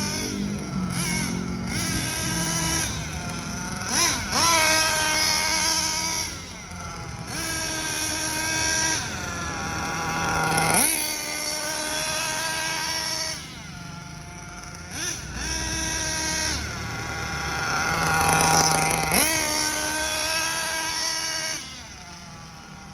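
Hobao Hyper VS nitro RC buggy's small glow engine running hard in repeated bursts, with a high whine whose pitch rises sharply on the throttle and falls away between bursts. The engine is being broken in.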